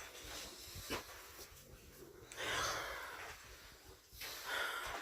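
Heavy, noisy breathing or snorting: three breathy swells about two seconds apart, with a couple of faint clicks between them.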